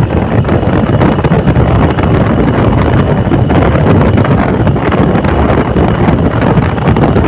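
Heavy wind buffeting on the microphone, a steady loud rumble, with a vehicle running underneath it.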